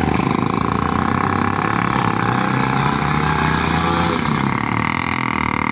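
Small vehicle engine idling with a fast steady firing beat and a whine above it. The engine is the failing one that soon stalls.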